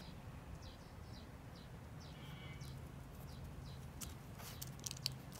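Faint small birds chirping in short, high, falling notes, with a few light clicks about four and a half to five seconds in.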